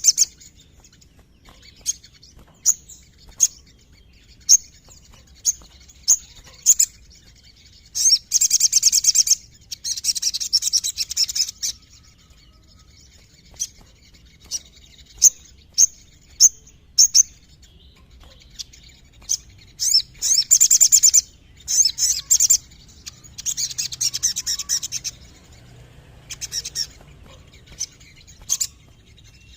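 Sogon (spiderhunter) singing: sharp, high single chirps at irregular intervals, broken by several fast rolling trills of one to two seconds each.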